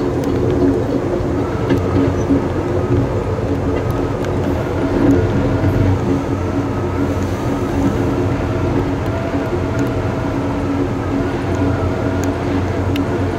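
Passenger train rolling along the track, heard from inside the rear car: a steady rumble and hum with a few faint clicks.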